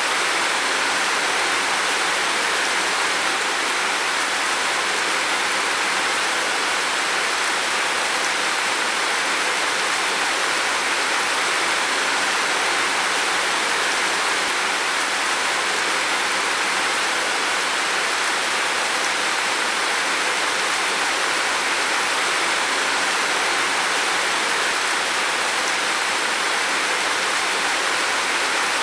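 Heavy rain falling steadily on a roof, a dense even hiss with no separate drops standing out.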